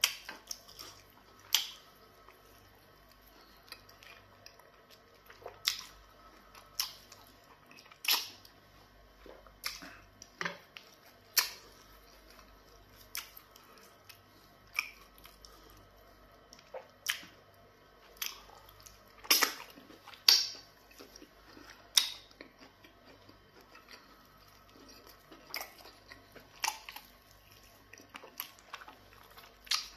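Close-up eating sounds of pounded yam fufu dipped in black soup and eaten by hand: wet chewing and sharp lip smacks every second or two, loudest a little past the middle.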